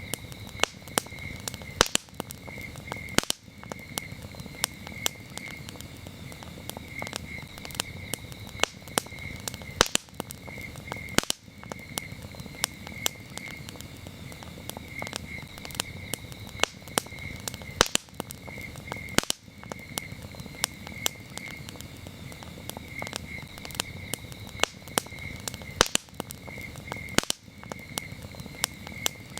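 Wood campfire crackling, with frequent irregular sharp pops over a low steady rush of burning. Crickets chirp throughout in a high, steady, pulsing trill.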